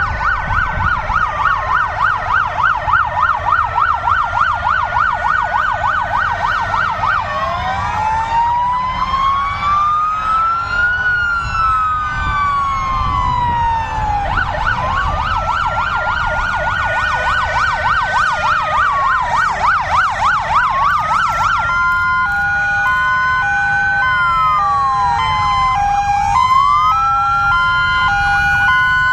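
Several fire engine sirens sounding at once as the vehicles pass: a fast yelp, slow wails rising and falling, and, from about two-thirds of the way in, a two-tone hi-lo siren. A low rumble runs underneath.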